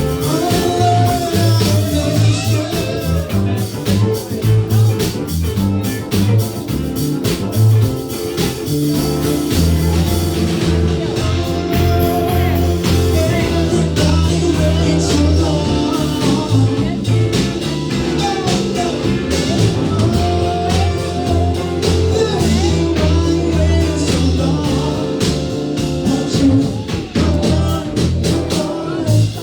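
A rock-and-blues band playing live, with a steady drum beat, bass and guitar, and a voice singing at times.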